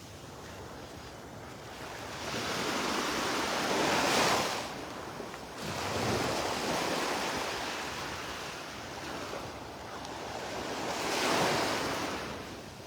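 Surf on a Gulf beach: waves breaking and washing up the sand in swelling rushes, the loudest about four seconds in and again near the end.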